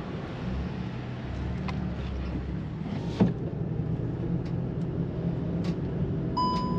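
Seat Leon Cupra 300's turbocharged 2.0-litre four-cylinder engine running at low revs, heard from inside the cabin as the car pulls away, getting slightly louder. A sharp click about three seconds in, and a short electronic beep near the end.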